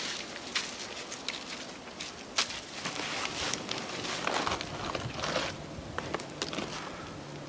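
Rustling on the forest floor with footsteps and several sharp, scattered cracks and knocks of sticks and wood being handled.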